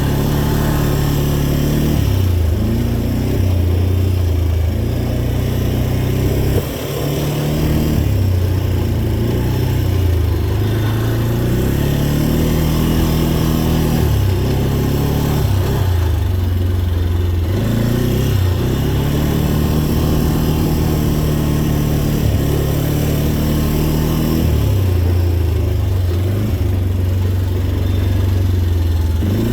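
Dirt bike engine being ridden on a rough trail, its pitch climbing and dropping over and over as the throttle is opened and rolled off through the gears. There is a brief lull in the engine about seven seconds in.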